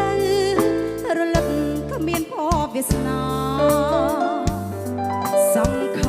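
Khmer romantic pop song played live by a band: a wavering vibrato melody over sustained bass notes and regular drum strokes.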